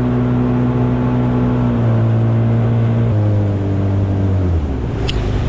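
An engine running steadily, its pitch dropping in steps three times as it slows.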